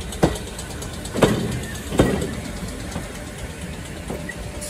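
Train moving with a steady low rumble and three heavy clunks, each under a second apart. A steady hum comes in near the end.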